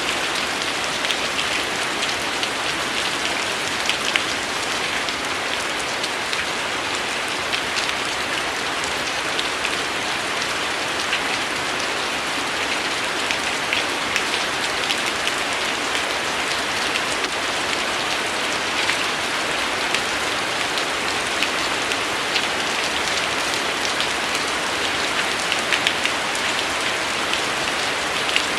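Steady rain falling on a surface, an even hiss with many small, sharp drop ticks, no thunder.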